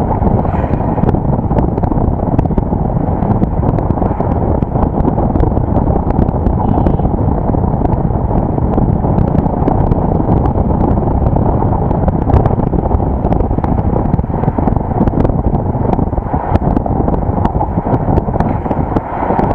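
Wind buffeting an action camera's microphone on a moving vehicle, with road and engine noise underneath: a steady, heavy rumble.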